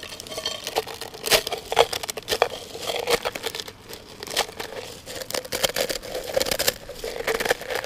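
Irregular crackling and crinkling: chorizo, onions and peppers frying in a metal mess tin, mixed with the handling of kit and a packet.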